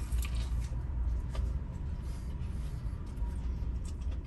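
Biting into and chewing a crispy fried chicken sandwich, small crackly crunches over a steady low rumble.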